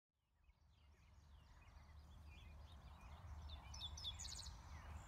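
Faint birdsong, with several birds chirping and a quick trill of repeated notes about four seconds in, over a low steady rumble.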